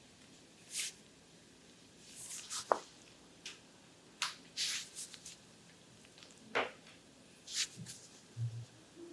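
Massaging hands sliding over oiled skin of the abdomen: short, irregular swishes and squishes, several a second at times with gaps between.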